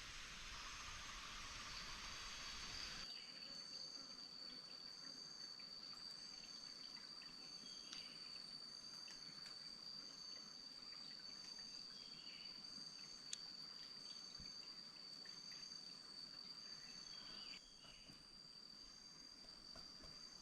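Insects: one keeps up a steady high trill while another chirps in short, evenly spaced pulses about once a second. A hiss fills the first three seconds and cuts off abruptly.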